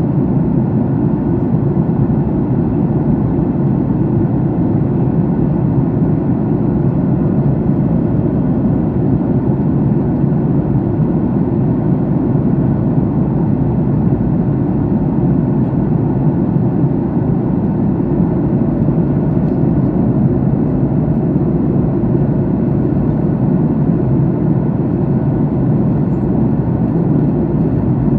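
Steady roar of a jet airliner in flight, its engines and rushing air heard inside the passenger cabin.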